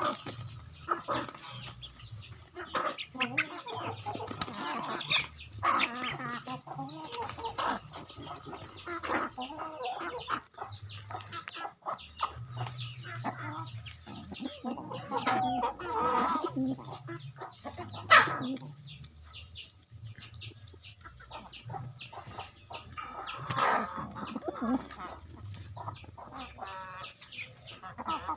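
Chickens clucking while being fed, with many short, irregular calls and clicks and one sharp, louder click about eighteen seconds in.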